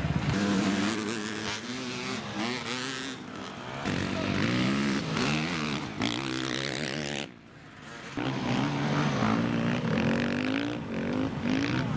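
Dirt bike engines revving hard in bursts, the pitch climbing and dropping over and over. The sound drops off briefly about seven seconds in, then the revving picks up again.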